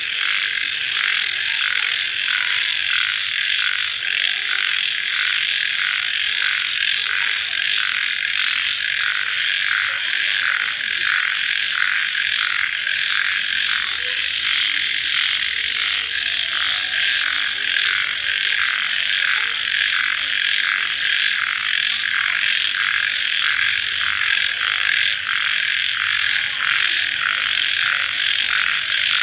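Dense night chorus of calling crickets, a steady high-pitched trilling that pulses evenly a few times a second.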